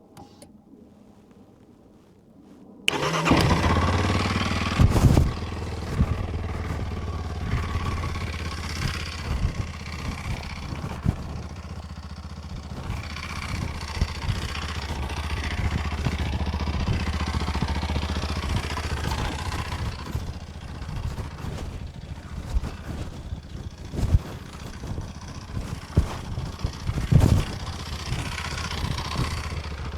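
Kawasaki KLX230's single-cylinder engine starting about three seconds in, then running steadily, with a few sharp knocks along the way.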